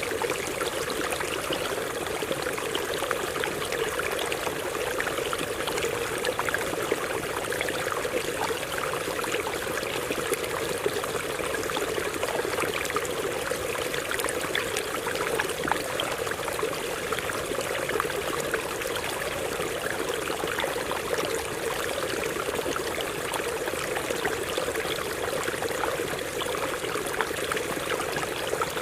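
Stream water running over rocks, a steady rush of flowing water with many small splashes throughout.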